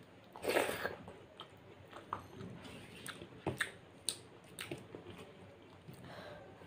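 Close-up chewing and wet mouth smacks from eating soft moong dal khichuri by hand. A louder, noisy burst comes about half a second in as a handful goes into the mouth, followed by scattered short clicks.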